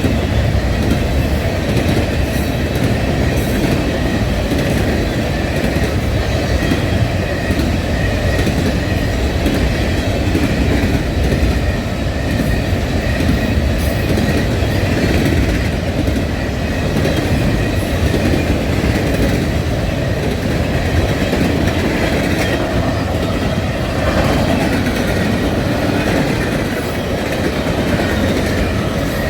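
Freight train rolling past, a steady rumble of railcars with the clickety-clack of wheels over the rail joints.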